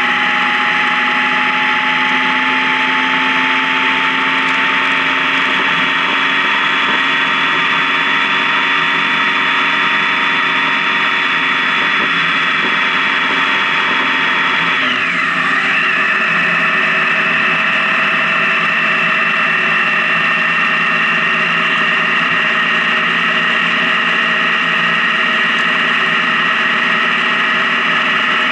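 Honda Gold Wing touring motorcycle underway at road speed: engine drone and wind noise. The engine note climbs slowly, then drops about halfway through, like an upshift, and runs steadily after.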